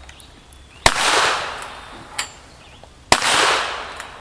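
Two gunshots about two seconds apart, each with a long echo rolling away after it, and a fainter sharp click between them.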